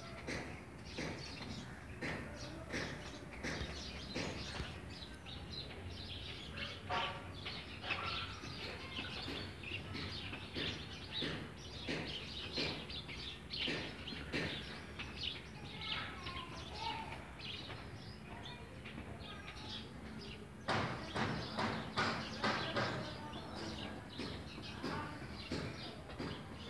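Birds chirping in a mango tree: a dense, overlapping stream of short calls, growing busier and louder for a few seconds near the end.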